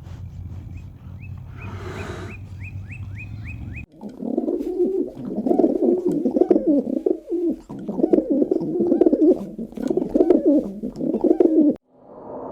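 A run of about eight short, high, falling chirps over a low rumble. About four seconds in it cuts abruptly to louder, low, wavering bird cooing with overlapping calls, which stops shortly before the end.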